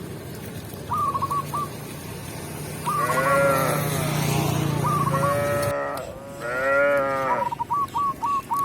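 Cow mooing twice: one long moo about three seconds in and another about six and a half seconds in.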